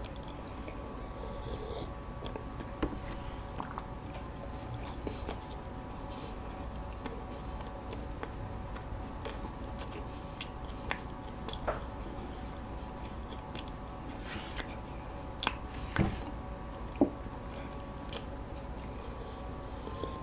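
Close-miked chewing of soft walnut cakes, with wet mouth sounds and a few sharp clicks scattered through, over a faint steady hum.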